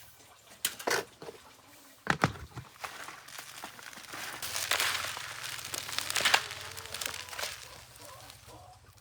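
Bran being added to chopped greens and mixed by hand for chicken feed: irregular rustling and scraping with a few knocks in the first couple of seconds.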